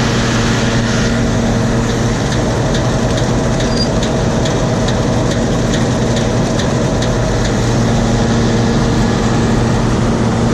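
John Deere 7720 combine running steadily under harvesting load, a constant low diesel drone with the rattle of its threshing machinery and a light regular ticking about twice a second through the middle.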